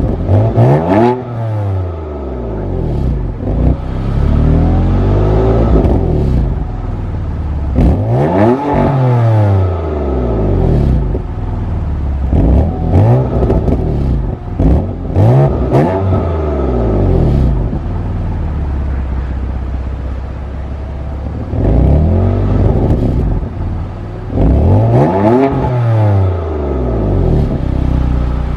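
2019 BMW M4 CS twin-turbo straight-six through an Akrapovic exhaust being revved again and again, each rev rising and falling back to idle, with a run of quick short blips in the middle. Short crackles come from the exhaust near several rev peaks.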